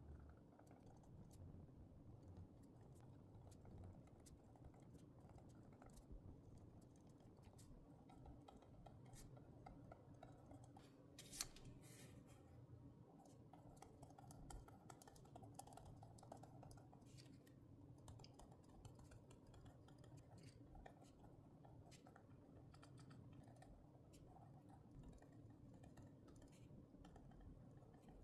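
Faint desk sounds of hands working with paper and stationery for journaling: scattered small clicks and taps, with one sharper click about eleven seconds in.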